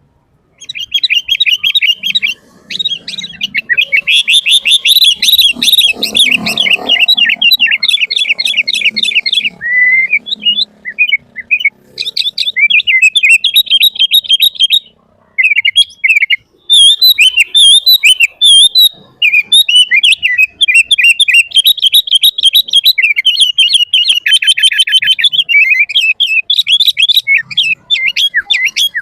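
Sooty-headed bulbul (kutilang) singing loudly and busily: long runs of rapid, chattering, fluty notes, with a few short breaks.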